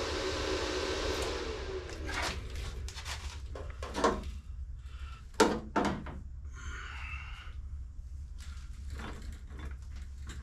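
A power tool's motor winding down with a falling whine in the first two seconds, then scattered knocks and clunks of hands-on work, the loudest a little after five seconds in, over a steady low hum.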